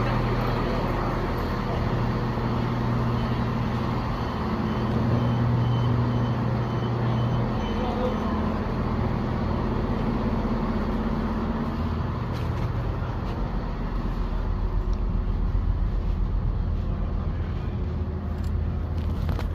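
Diesel passenger train running, a steady low engine hum over a general rumble; the hum's strongest note fades about seven seconds in.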